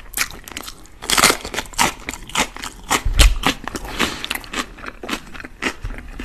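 Close-miked chewing of a bite of raw green pepper: a run of short crunches and clicks about twice a second, densest about a second in.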